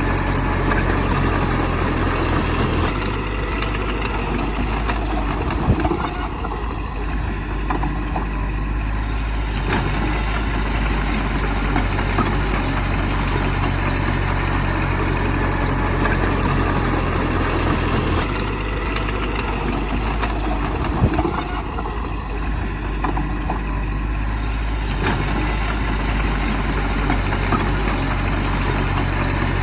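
Heavy diesel engine of earthmoving machinery running steadily. Its low drone changes about 3 seconds in and again about 18 seconds in, with a short knock near 6 and 21 seconds.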